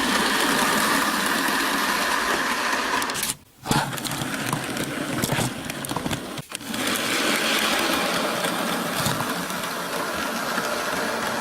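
Bachmann model train running on its track, a steady electric motor whir with wheel rattle. It cuts out sharply about three and a half seconds in, and again briefly about six and a half seconds in.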